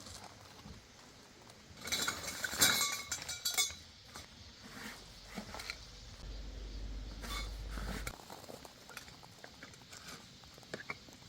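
Hard objects clinking and rattling as they are handled, in a burst of about two seconds, followed by a low rumble of about two seconds and a few light knocks.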